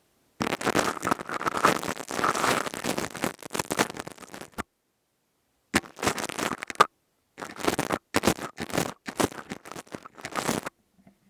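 Close-miked ASMR crystal tube rubbed and scratched against the microphone, giving a dense crackling scrape in three stretches with short silent pauses between them.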